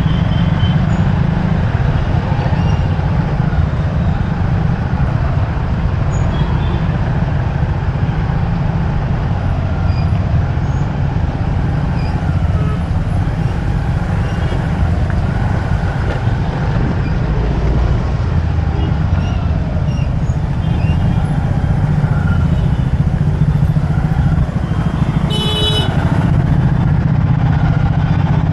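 Riding a motorcycle through city traffic: a steady, loud low rumble of engine and road noise, with a vehicle horn sounding briefly near the end.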